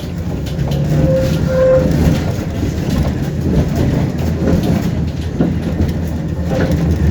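Tram running along the track, heard from inside the passenger car: a steady low rumble of wheels and running gear with scattered light clicks from the rails. Two short faint tones sound about a second or so in.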